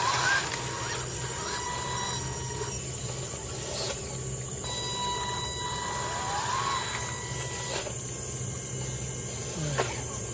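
Radio-controlled truck's electric motor whining at a steady pitch, rising briefly twice as the throttle is opened, with a few sharp clicks.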